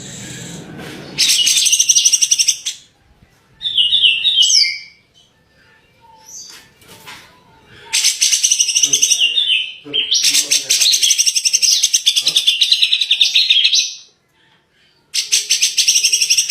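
Cucak jenggot (grey-cheeked bulbul) singing in loud bursts of very fast, rapidly repeated high chattering notes, the 'tembakan' machine-gun style prized in a gacor bird. There are four bursts with short pauses between them, the longest lasting about six seconds.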